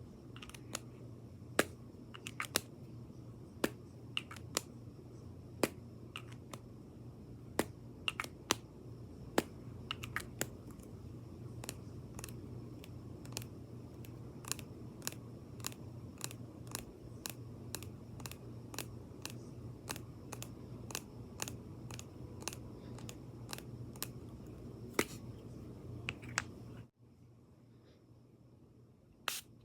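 Sharp taps and clicks on makeup items, close to the microphone, irregular at first, then coming about once a second. They sound over a steady low hum that cuts out near the end, just before one last click.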